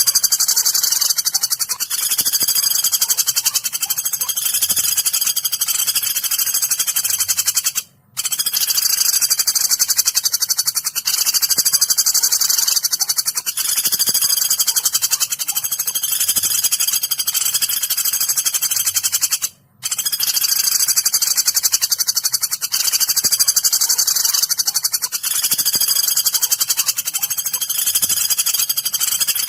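Looped recording of woodpecker calls used as masteran for songbirds: continuous shrill, high-pitched rattling calls that drop out briefly twice, where the loop restarts.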